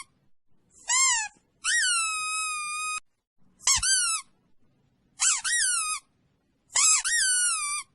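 A high-pitched squeaky call repeated five times, each one swooping up and down in pitch. The second call is drawn out and held level for more than a second.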